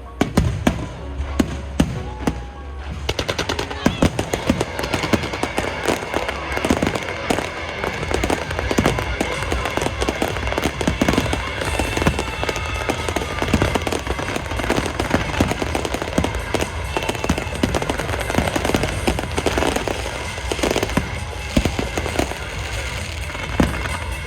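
Aerial fireworks bursting one after another, the separate bangs thickening into a dense, continuous crackle about three seconds in, with music playing underneath.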